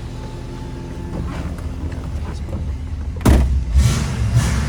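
A 1966 Ford Mustang's 289 V8 idling steadily. About three seconds in comes a sharp, loud thump, and after it the low rumble is louder.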